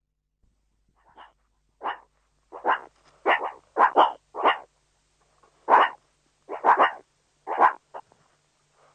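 A dog barking: about a dozen short, separate barks in an uneven run, starting about a second in.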